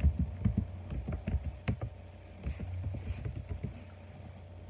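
Typing on a computer keyboard: a run of quick, uneven key clicks, with a pause about two seconds in, over a low steady hum.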